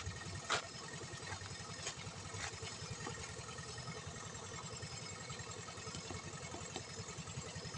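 Tractor engine running steadily at a low, even pulse, with a few sharp knocks in the first few seconds.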